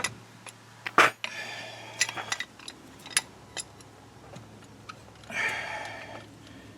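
Sharp metallic clinks and knocks of hand tools against a brake caliper while its piston is being pressed back, the loudest knock about a second in, with a brief rush of noise a little past halfway.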